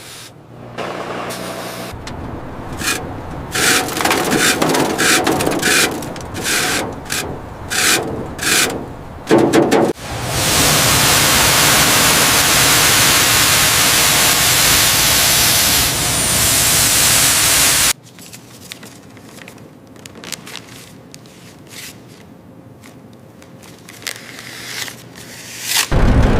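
Cleaning sounds on a truck: a run of quick rubbing and scrubbing strokes, then a loud steady spraying hiss for about eight seconds that cuts off suddenly, followed by softer rubbing.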